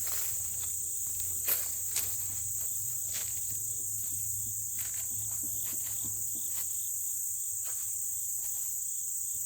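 Steady, high-pitched insect chorus droning without a break, with a couple of sharp clicks about a second and a half and two seconds in.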